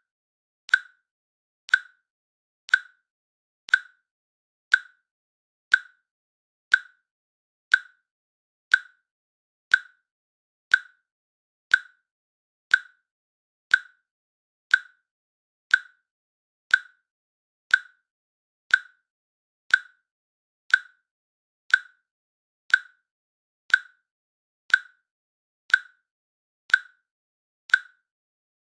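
A timer's click sound ticking once a second, each click short and sharp with silence between.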